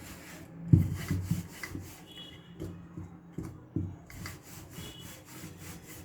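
Rolling pin rolling out pizza dough on a board: repeated rubbing strokes with light knocks, the loudest about a second in.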